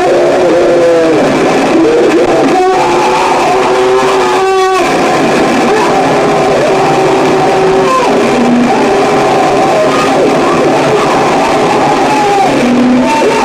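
Noise music: a loud, dense wall of distorted hiss with several held feedback-like tones that jump from pitch to pitch, and two short rasping sweeps, one about two and a half seconds in and one a couple of seconds later.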